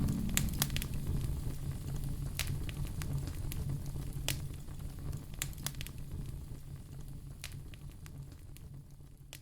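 Wood fire crackling in a fireplace: scattered sharp pops and snaps over a low steady rumble, fading out gradually toward the end.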